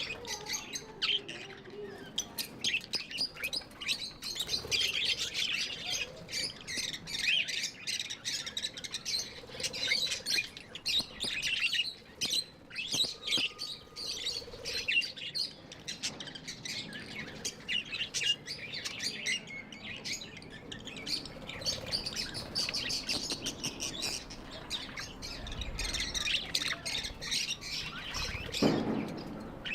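Pet budgerigars chirping and chattering without pause, quick high warbles and clicks overlapping, with a brief low thud near the end.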